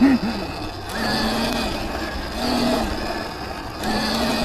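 Electric dirt bike motor whining in three short surges as the throttle is opened and eased, each rising and falling in pitch, over a steady rushing noise.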